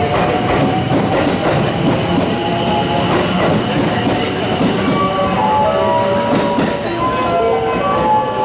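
Electric commuter train running along the platform, its wheels clacking over the rail joints. About five seconds in, a short chiming platform melody starts playing over it.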